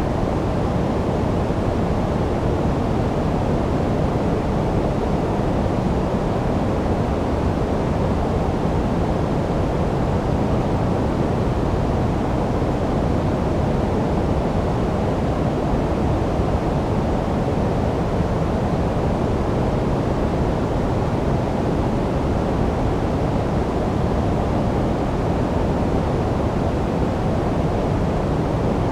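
Steady generated noise track for sleep: an even, unchanging rush with no pulses or events, weighted toward the low end, so it sounds duller and deeper than true white noise.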